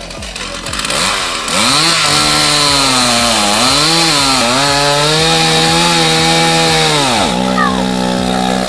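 Two-stroke chainsaw revved up to full throttle about a second and a half in, its pitch dipping and rising as it runs. Near the end the pitch falls sharply as the throttle is let off, and it settles to a lower steady speed.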